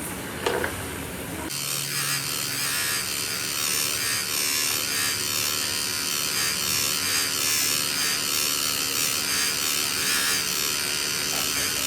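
A small power tool running steadily, a high-pitched whirring noise that starts abruptly about a second and a half in.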